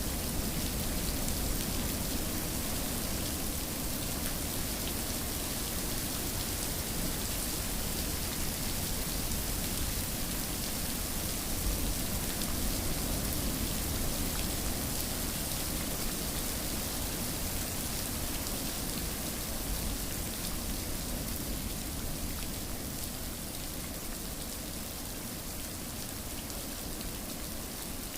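Steady rain falling and pattering on a surface, an even hiss with no thunder, easing slightly near the end.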